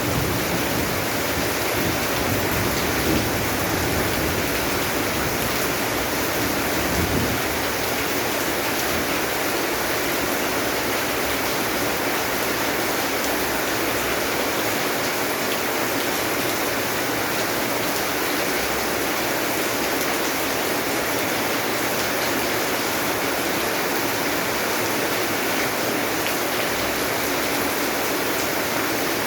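Steady rain, an even hiss, with a low rumble of thunder dying away over the first several seconds.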